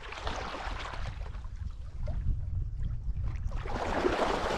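Water splashing and sloshing around a kitesurfer in the water, louder near the end, with a steady rumble of wind on the microphone.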